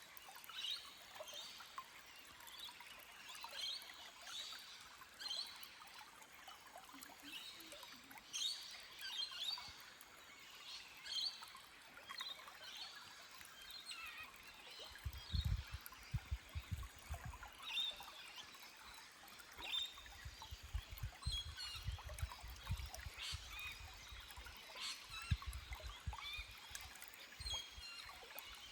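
Small forest stream trickling over rocks while birds chirp in many short calls. From about halfway through, bursts of low rumble come and go.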